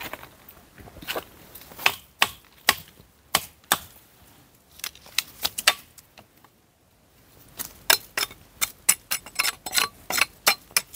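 Dry wood being chopped with a blade: sharp, irregular strikes, spaced out at first, then coming fast and close together after a short pause.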